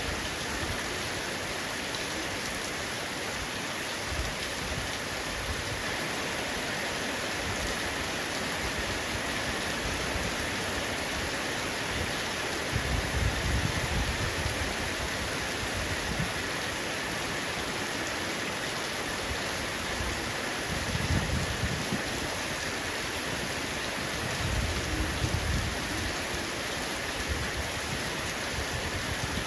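Heavy rain falling on a roof: a steady, dense hiss of drops. Three short low rumbles rise over it, about halfway through, a little later, and near the end.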